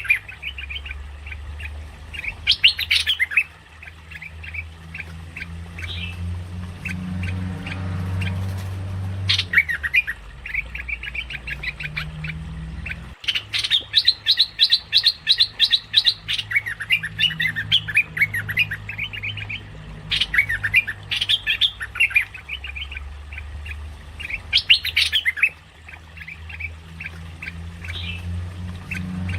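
Merbah lekir, a bulbul, singing in repeated bursts of fast chattering, squawky notes, recorded for use as a bird-trapping lure call. A steady low hum runs underneath.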